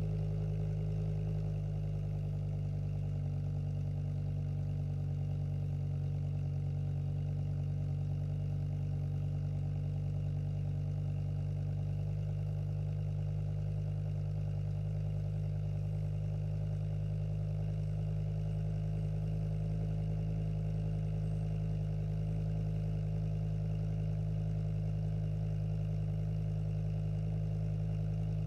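BMW E60 M5's V10 engine idling steadily through an aftermarket exhaust.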